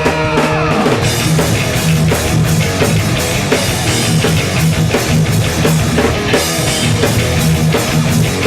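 Hardcore punk band playing live: distorted electric guitars and a pounding drum kit. Held guitar notes slide down about a second in as the full band kicks into a fast driving part.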